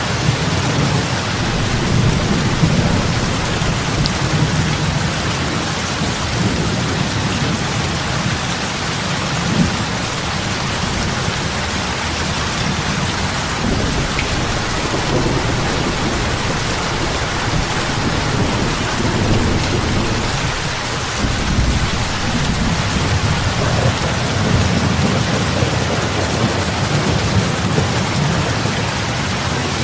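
Heavy rain falling on a lake: a dense, steady hiss of drops hitting the water over a low, continuous rumble.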